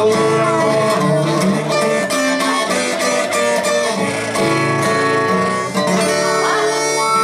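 Instrumental break of an acoustic blues song: plucked guitar with held, wavering melody notes from a harmonica, one of them bending in pitch near the end.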